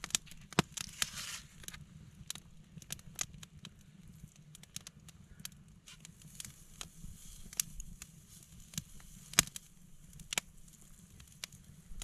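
Wood campfire crackling, with irregular sharp pops scattered through, the loudest about nine and a half seconds in.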